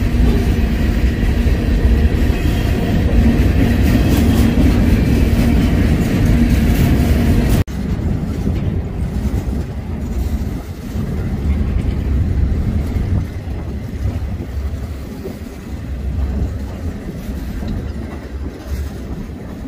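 Freight train rolling past, its rail cars rumbling and clacking over the track. About seven and a half seconds in the sound cuts off abruptly and picks up again as a quieter, lower rumble.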